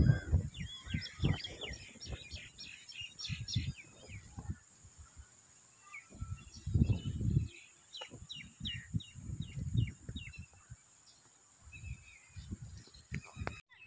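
Birds chirping in runs of short, quick high calls, with irregular low rumbles underneath.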